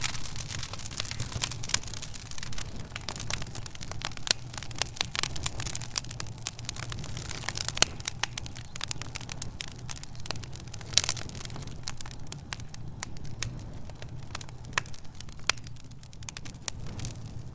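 Wood fire burning in a fireplace, with dense irregular crackles and pops over a steady low rumble of the flames.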